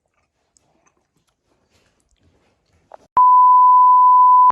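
Near silence, then a single loud, steady electronic beep about three seconds in, held for over a second and cut off suddenly.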